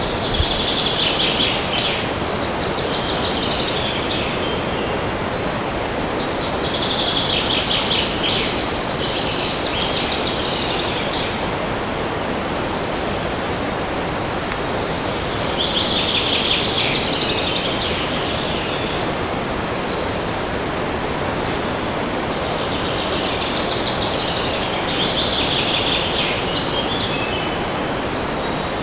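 Steady wind rushing through forest trees, with a songbird singing a short phrase of quick high notes four times over it, every seven or eight seconds.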